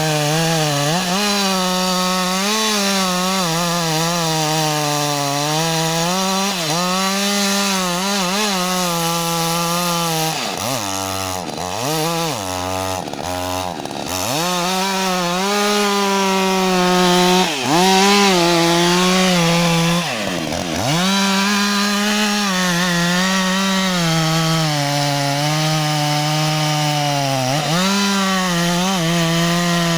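Husqvarna 562 XP two-stroke chainsaw running at high revs while cutting through wood. The engine note drops and climbs back several times about ten to fourteen seconds in, then dips deeply once more around twenty seconds, before holding high again.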